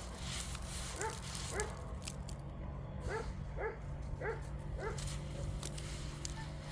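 A dog giving short, high, rising yips, about six of them in two loose pairs and singles.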